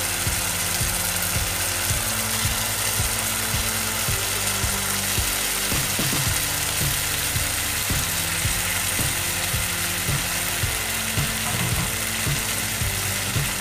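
Raw chicken pieces sizzling in hot oil and onion-tomato masala in a karahi as they are added to the pan, a steady frying hiss. Background music plays underneath.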